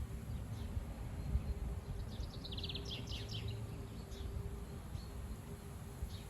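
Gusty wind buffeting the microphone with an uneven low rumble, over a faint steady hum. A small bird chirps and gives a quick trill about two to three seconds in.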